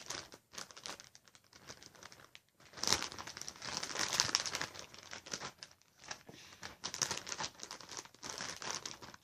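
Plastic bag crinkling and rustling in uneven bursts as slime is handled in it, loudest about three to four seconds in.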